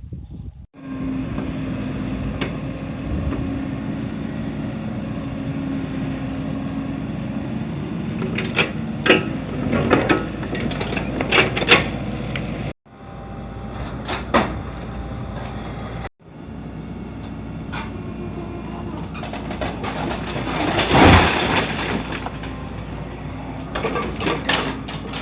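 Excavator engine running steadily, with sharp clanks and cracks of concrete rubble being broken or moved, bunched between about eight and twelve seconds in, and a louder crash about twenty-one seconds in. The sound cuts off abruptly twice.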